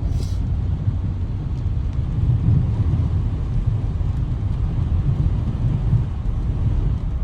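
Steady low rumble of a car on the move, with no distinct events.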